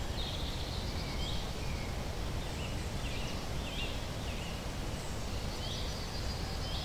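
Birds chirping in short, high calls every second or so over a steady low background noise.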